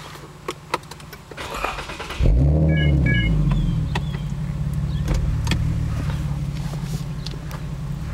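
2009 Infiniti G37S's 3.7-litre V6 being started through an MXP exhaust with Berk test pipes. A short crank about two seconds in gives way to a sudden catch and rev flare, and the engine then settles into a steady idle that slowly drops. Two short pairs of beeps come just after it catches.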